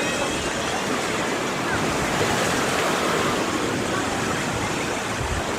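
Sea of Azov waves washing onto the shore: a steady rush of surf with no breaks.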